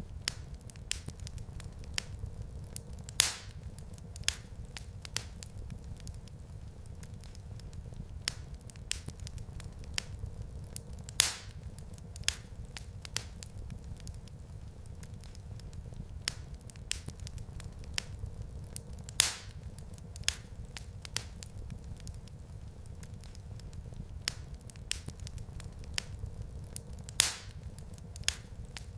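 Wood fire crackling in a fireplace: scattered sharp pops and clicks over a steady low rumble, with a louder pop about every eight seconds.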